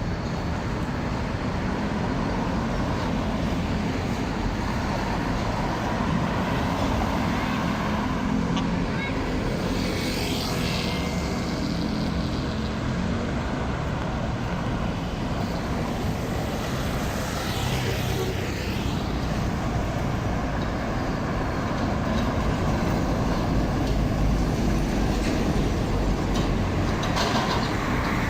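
Steady roadside traffic: engines and tyres of passing vehicles, with louder pass-bys about ten seconds in and again a little past halfway.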